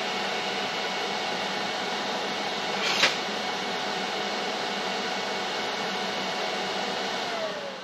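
An electric motor running steadily with a whine, with a short sharp click about three seconds in; near the end it is switched off and winds down, its pitch falling.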